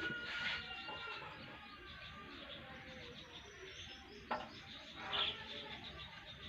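Birds chirping in the background, with a sharp knock about four seconds in and a short noisy burst a second later.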